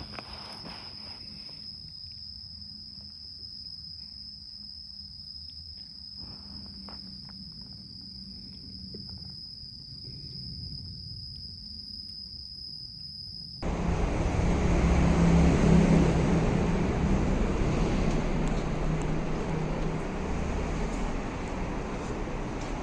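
An insect drones steadily at one high pitch over a faint low rumble. A little past halfway it cuts abruptly to much louder wind and engine noise from a moving motor scooter.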